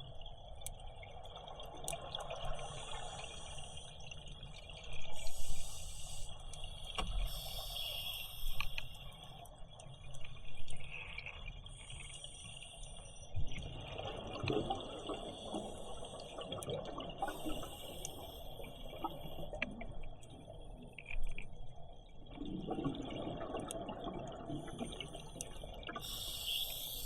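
Scuba diver breathing through a regulator underwater: short hissing inhalations every few seconds and longer bubbling exhalations, over a steady faint high hum.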